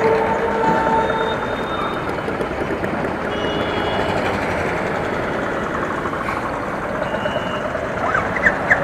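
City traffic noise: a steady rush of passing vehicles, with a vehicle horn sounding for about the first second and a run of quick high chirps near the end.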